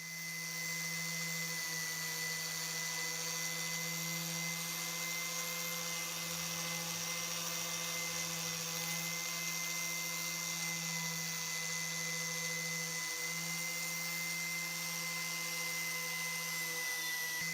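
Small electric power tool running steadily at constant speed, a hum with a high whine and no change in load.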